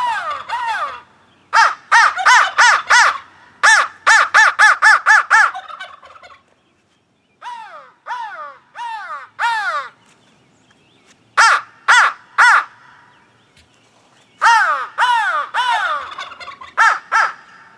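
Handmade crow call from Cash's Custom Calls blown in runs of harsh, falling caws, some spaced and some rapid, with pauses between the runs.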